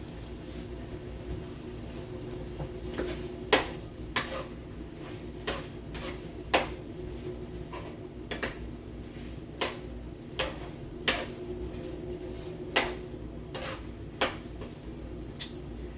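Utensil clinking and knocking against a pan while food is stirred, irregular sharp clicks every second or so starting about three seconds in, over a steady low hum.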